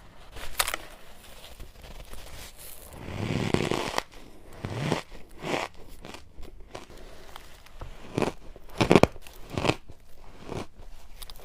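A person biting and chewing shaved ice, a series of separate crunches with a longer grinding crunch about three seconds in.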